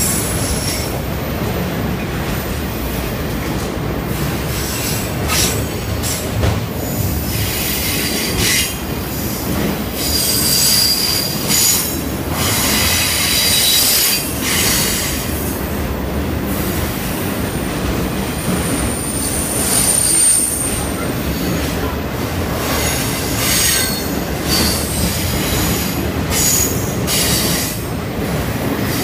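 Freight train of autorack cars rolling past close by: a steady rumble of wheels on rail, with high wheel squeals that come and go and one long thin squeal a little past the middle.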